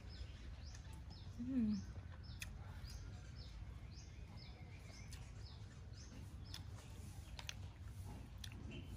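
A small bird chirping over and over, a short high note about twice a second, over a steady low rumble. A brief low voiced hum comes about a second and a half in, and there are a few light clicks.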